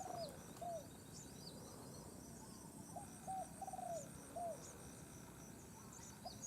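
Faint dove cooing: a series of short low coos and one longer falling coo, over a steady, evenly repeating high chirping of insects.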